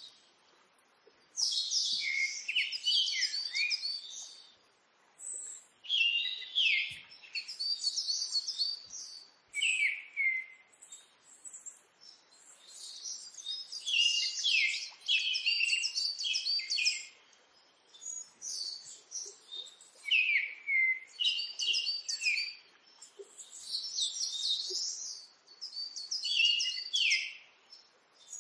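Bird song: phrases of quick, high chirping notes, each one to a few seconds long, repeated with short pauses between them.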